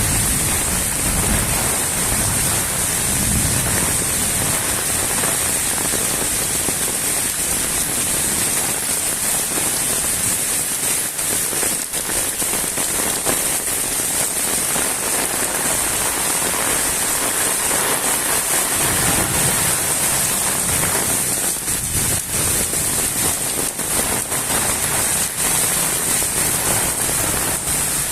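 Moderate rain falling steadily, a constant hiss of drops on the ground and surfaces.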